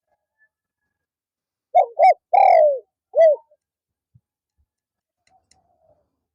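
Spotted dove cooing: one phrase of four loud coos, two short, a longer falling one, then a short one. A fainter coo follows near the end.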